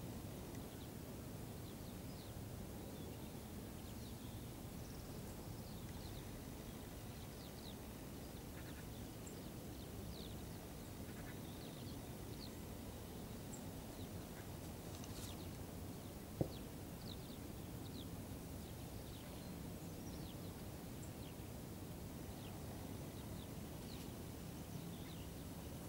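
Small birds chirping in short, high calls scattered over a steady low rumble of outdoor noise, with one sharp click about sixteen seconds in.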